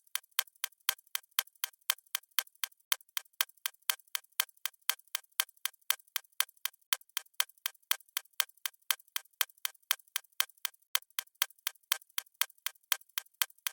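Clock-style ticking sound effect of a countdown timer: crisp, even ticks at about four a second, with no low end.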